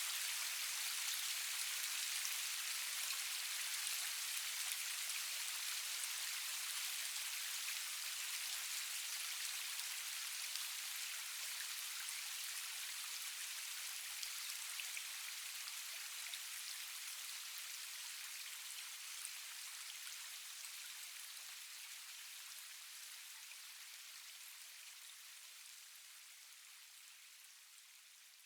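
Steady rain falling, a dense hiss of many fine drop ticks with no thunder, fading out slowly and evenly to near silence by the end.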